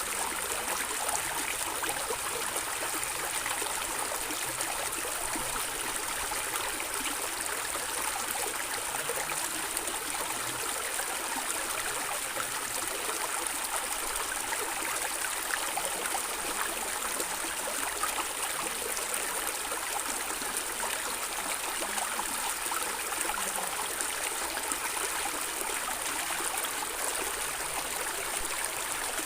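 Stream water flowing and gurgling, a steady, even rush that doesn't change.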